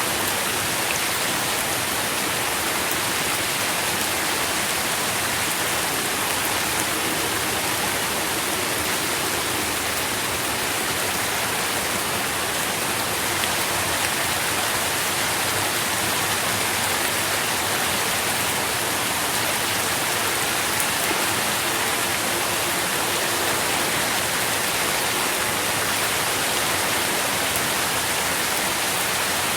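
Steady rain falling, an even hiss of many small drops with no distinct individual impacts.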